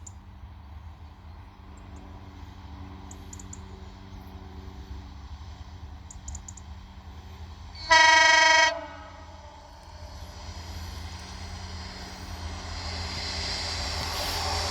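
A train horn gives one short single-note blast about eight seconds in, over a steady low rumble. Afterwards the noise of an approaching train grows steadily louder.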